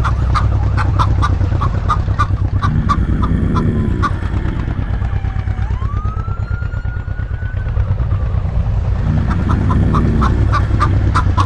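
A motorcycle engine's steady low drone mixed with rapid chicken clucking, about five clucks a second. The clucking thins out in the middle, where one drawn-out call rises and then falls.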